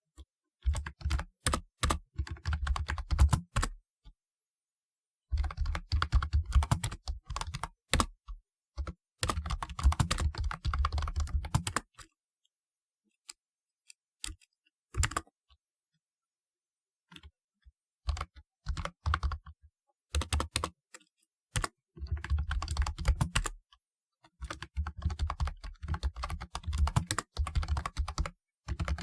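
Typing on a typewriter-style keyboard with round retro keycaps: rapid runs of key clicks in bursts of a few seconds, broken by short pauses and a few lone keystrokes.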